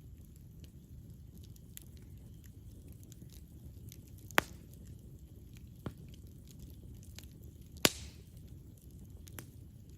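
Campfire burning: a low steady rumble of flame under a scatter of small crackles, with two loud sharp pops from the burning wood about three and a half seconds apart and a couple of weaker ones.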